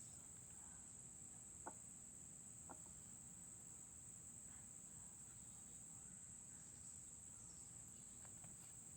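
Near silence: a steady, thin, high-pitched whine in the background, with two faint clicks about two and three seconds in.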